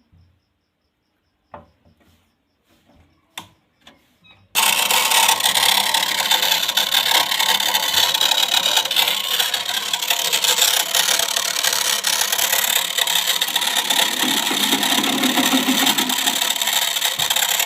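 A few faint clicks, then about a third of the way in an agarbatti (incense stick) making machine starts up and runs with a loud, steady mechanical noise.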